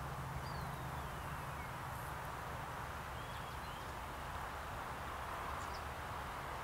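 Steady open-air background hiss and low rumble, with a few faint bird calls: one descending whistle about half a second in and short chirps around three seconds in.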